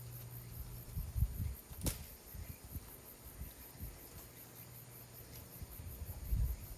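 Insects chirping steadily in a fast, even pulse, with irregular low bumps and rustles close to the microphone and one sharp click about two seconds in.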